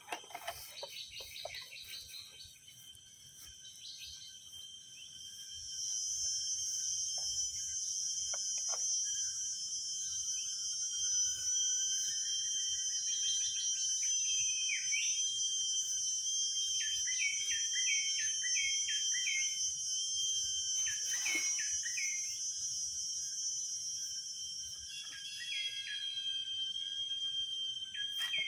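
Insects droning steadily at a high pitch, swelling about six seconds in, with a bird calling in groups of short repeated chirps.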